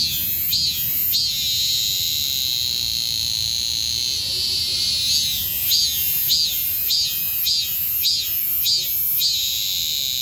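Cicada singing: runs of short rising notes, about two to three a second, alternating with a long, steady, high buzz.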